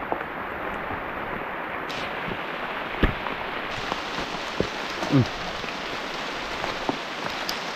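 Steady rain falling on the forest, with scattered crackles and knocks of footsteps over dry bamboo leaves and rocks.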